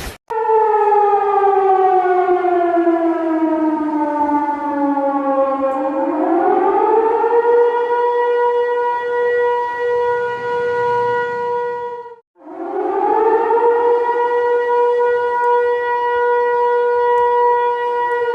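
Civil-defence warning siren wailing: its pitch slides slowly down, winds back up and holds steady, cuts out for a moment about twelve seconds in, then winds up again, holds and begins to fall near the end.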